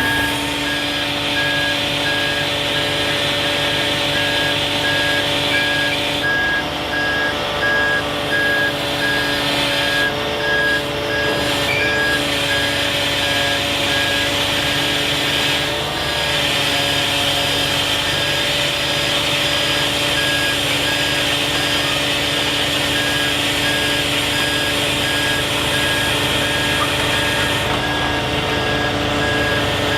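Kenworth T880 hook truck's diesel engine running steadily while its back-up alarm beeps evenly, about once a second.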